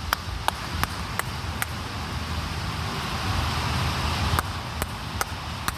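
Hand claps from someone a short way off, in two runs of about five sharp claps, roughly two or three a second, clapping to scare a flock of birds out of the trees. A steady background hum runs underneath.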